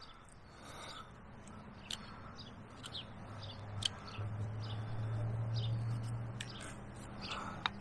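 Small birds chirping on and off, with short high calls scattered throughout, over a steady low hum that grows louder partway through.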